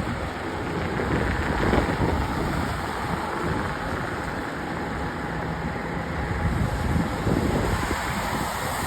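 Road vehicle running with steady road noise, wind buffeting the microphone.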